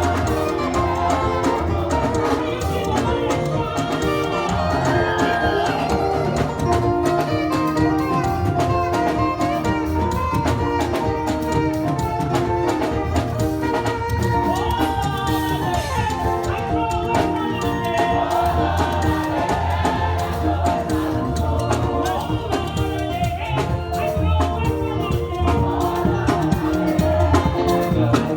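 Live church praise music: a band playing with a steady, pulsing bass beat and sustained keyboard-like notes, with singing over it.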